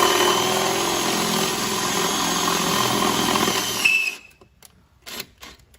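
Electric drill running with its bit boring into the car's sheet-steel body, a steady whine that stops abruptly about four seconds in, followed by a few faint clicks.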